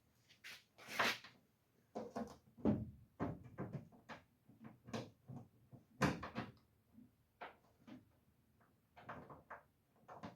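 Irregular knocks and clunks of hard objects being handled and set down, about a dozen separate strikes with short gaps between them.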